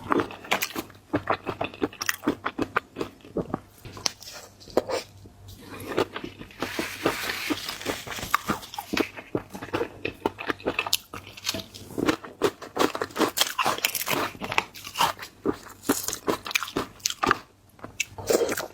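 Close-miked mukbang eating of seafood: a dense run of crisp crunches and chewing, with a longer stretch of rustly, hissy noise about seven seconds in.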